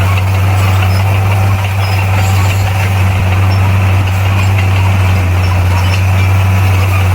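Heavy diesel engine of a bulldozer running steadily at constant speed, a loud low hum with no revving.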